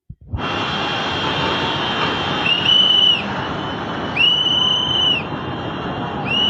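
Rushing floodwater as a steady, dense noise, with a shrill whistle blown three times over it, the middle blast the longest; the whistle blasts are the loudest sounds.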